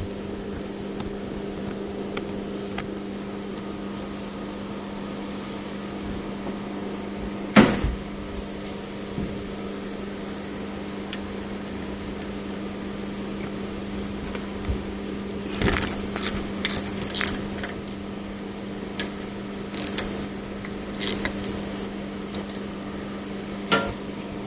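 Metal tools and parts clinking and knocking now and then while the oil separator is unbolted from an air compressor's separator tank. The knocks are sharp and scattered, one loud one about a third of the way in and a cluster past the middle, over a steady low mechanical hum.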